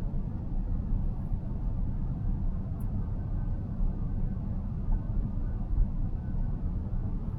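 A car driving along, heard from inside the cabin: a steady low rumble of road and tyre noise.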